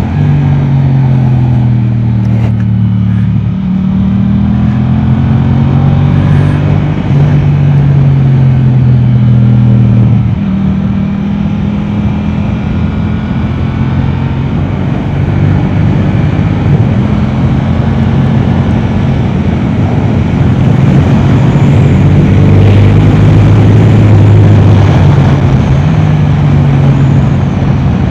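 Yamaha R7's 689 cc parallel-twin engine through an Akrapovic exhaust, revving hard on track: the pitch climbs and drops again and again as the rider shifts gears and brakes into corners, over steady wind rush.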